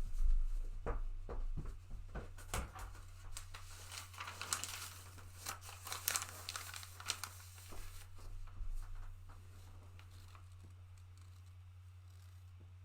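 Rustling and crinkling with scattered knocks as a football shirt is handled and pulled on close to the microphone, dying away about nine seconds in.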